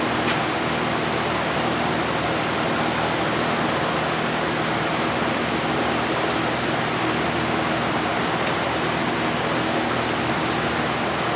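Steady rushing noise with a low hum, like a fan running, and a faint click just after the start.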